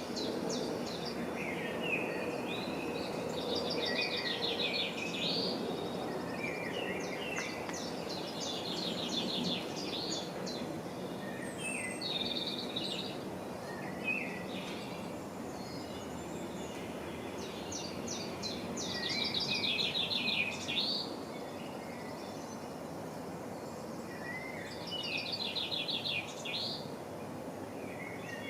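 Songbirds singing short phrases of rapid trilled notes, repeated every few seconds, over a steady background rush.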